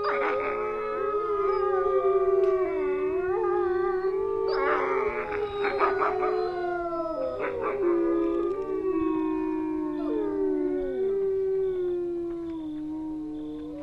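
A pack of wolves howling in chorus: several long howls overlap and slide slowly in pitch. Short yipping calls break in about a second in, again around five seconds, and near eight seconds.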